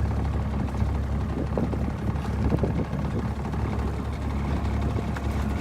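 A boat's motor running steadily at idle, a low even hum.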